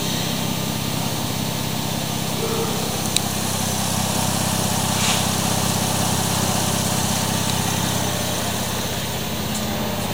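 2010 Holden Commodore's 3.0-litre V6 engine idling steadily.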